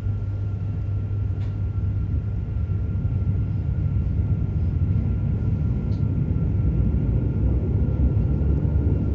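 Running sound inside a JR Hokkaido 731-series electric train car, Moha 731-109: a steady heavy rumble with a faint steady whine, getting slightly louder after the middle. The traction motor on this car's Otaru-end bogie gives an abnormal roar like an old nose-suspended (tsurikake) motor.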